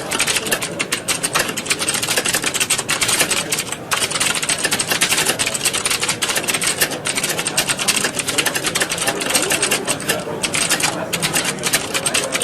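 Many computer keyboards being typed on at once, a dense, continuous clatter of keystrokes, thinning briefly a few times.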